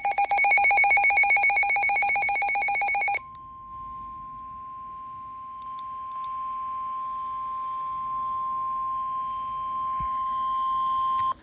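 Emergency Alert System alert tones on NOAA Weather Radio. First comes about three seconds of loud, rapidly pulsing, buzzy electronic data tones, the digital header that opens an alert. Then a single steady tone near 1 kHz sounds for about eight seconds: the 1050 Hz warning alarm tone that comes before a spoken warning.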